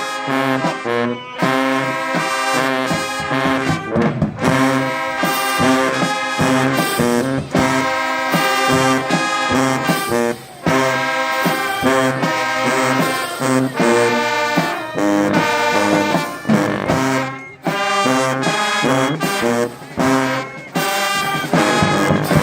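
High school band playing, with brass instruments to the fore: many loud sustained and shifting notes, with a couple of brief breaks between phrases.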